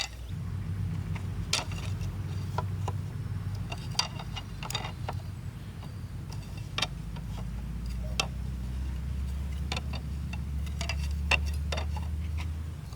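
A low steady hum that drops in pitch about eight seconds in, with scattered sharp clicks and taps.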